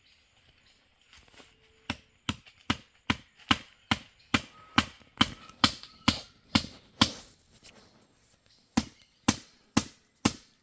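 A blade chopping into wood with sharp, evenly paced strikes, about two or three a second. A run of about a dozen strikes starts about two seconds in, breaks off for nearly two seconds, then starts again near the end.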